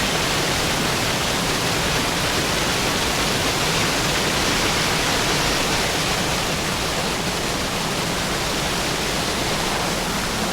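Steady rush of falling water from a rainforest waterfall, a constant even roar with no breaks.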